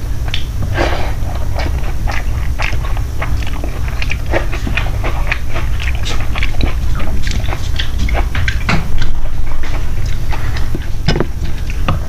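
A person eating close to the microphone: chewing and wet mouth smacks, with many short irregular clicks, over a steady low hum.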